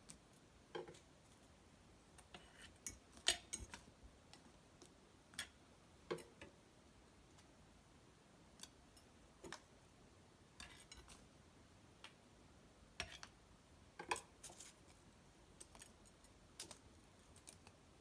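Cedar wood fire crackling in an irori hearth: sharp, irregular pops and snaps at uneven intervals over a quiet background.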